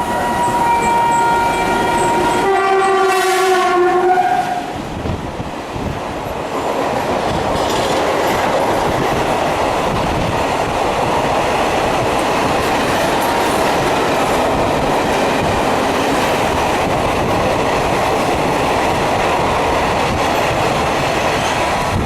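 WAM-4 electric locomotive's horn sounding, then a second blast lower in pitch that slides slightly down as the engine passes. After that comes the steady rumble of the train's coaches rolling past, with wheels clattering over the rail joints.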